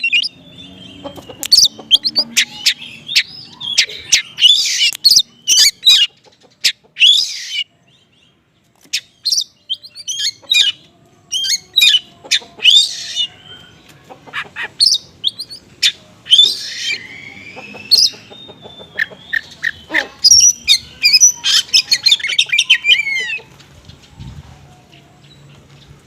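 Songbird singing loudly in fast runs of sharp chirps, rapid trills and short gliding whistles, with a brief pause about a third of the way in. The song stops near the end. This is small-bird song material used as a lure to provoke an unresponsive magpie-robin into singing.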